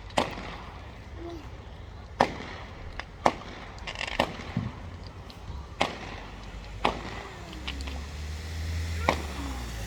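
Fireworks display: about nine sharp bangs of exploding aerial shells at irregular intervals, some in quick pairs.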